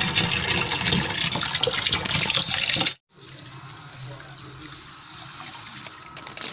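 Water gushing from a hose into the tub of a semi-automatic washing machine. About three seconds in it cuts off suddenly, and a fainter steady rush of water with a low hum follows.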